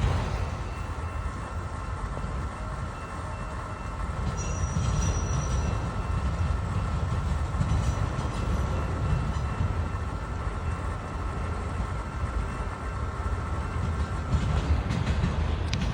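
CSX freight train cars rolling slowly past with a steady low rumble.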